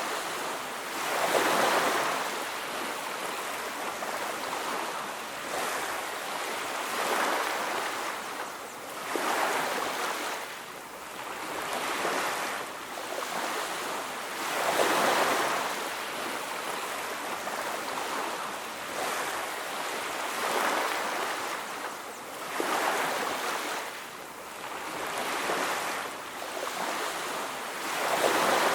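Ocean surf washing onto a beach, the noise of the waves swelling and fading every two to three seconds.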